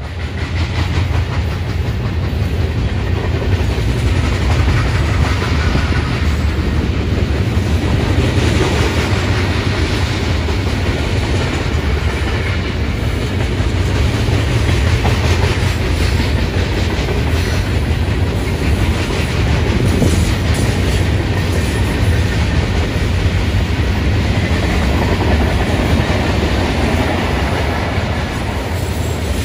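Long freight train of boxcars, tank cars and covered hoppers rolling past close by: a steady, loud rumble of steel wheels on the rails with a rapid run of clicks.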